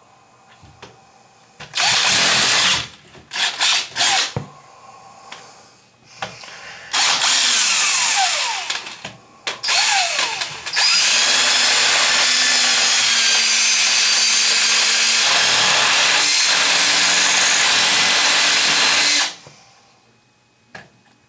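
Power drill running in several short bursts, its motor pitch sliding as it speeds up and slows, then a steady run of about eight seconds before it stops.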